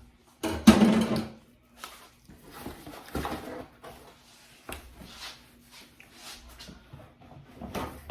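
Knocks and scrapes of cutting up and pulling apart a badly pre-sliced pizza by hand. There is one loud clatter about half a second in, then short knocks through the rest.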